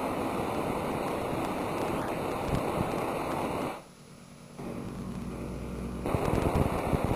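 Homemade Tesla coil with a rotary spark gap, fed by a 15,000-volt neon sign transformer, discharging with a dense crackling buzz. About halfway through the crackle cuts out; a steady low hum follows, then the sparks start again louder near the end.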